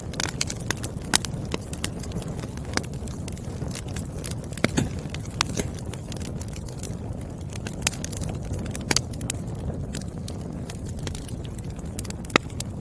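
Burning firewood crackling: irregular sharp pops and snaps, some loud, over a steady low rumble of the fire.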